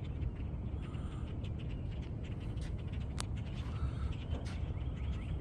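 A huge flock of birds in flight overhead, many short calls and chirps overlapping without pause, over a steady low rumble, with one sharp click about three seconds in.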